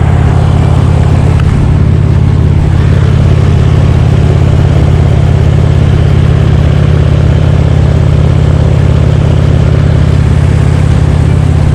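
2010 Harley-Davidson Electra Glide Ultra Classic's V-twin engine running steadily at road speed, a constant low drone heard from on the moving bike.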